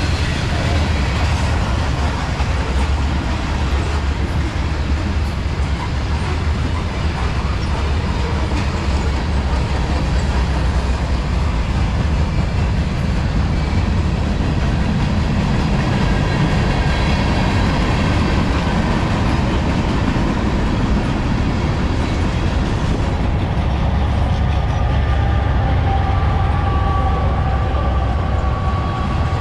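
Freight cars of a CSX manifest train rolling past, a steady rumble of wheels on rail. A faint high whine comes in toward the end.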